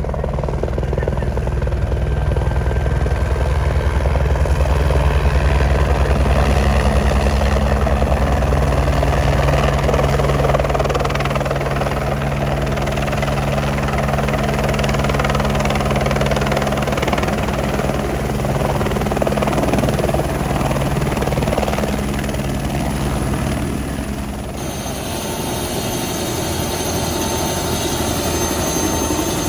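Helicopter running close by, a steady rotor and turbine noise. About 24 seconds in the sound changes abruptly to a thinner helicopter noise with a steady high whine.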